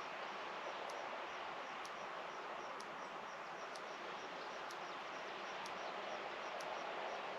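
Steady rural outdoor ambience with a faint high chirping about three or four times a second and a sharp tick roughly once a second throughout.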